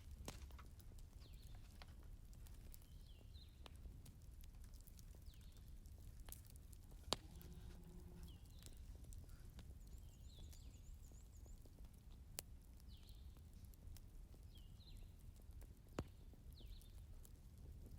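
Wood fire crackling quietly: a low steady rumble with scattered sharp pops, the loudest about seven seconds in and again near the end. A faint, short high chirp repeats about every second throughout.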